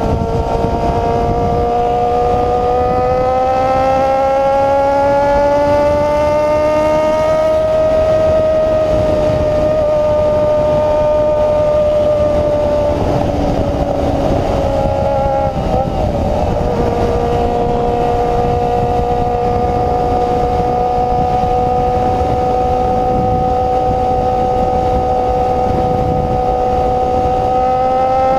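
Honda CB-1 400 inline-four running through an open, free-flowing exhaust at high revs. Its steady note climbs slowly over the first several seconds and holds. About halfway through it breaks and falls to a lower note, stays steady there, then starts rising again near the end.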